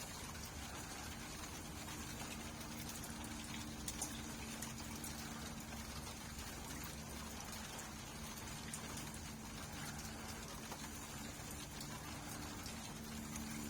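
Steady rainfall, an even hiss with scattered sharp drop hits.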